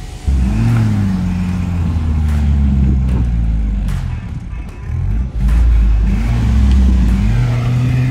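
Mercedes-Benz W123 petrol engine revving hard under load as the car climbs a steep dirt slope. The revs come in suddenly just after the start, rise and fall, drop briefly about five seconds in, then hold steadier near the end.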